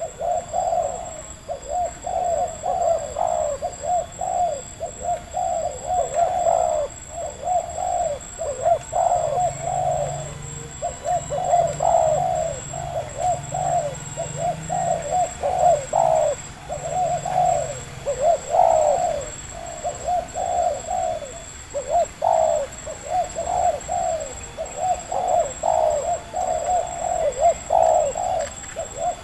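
Spotted dove (tekukur) cooing over and over, short coos following one another almost without a pause.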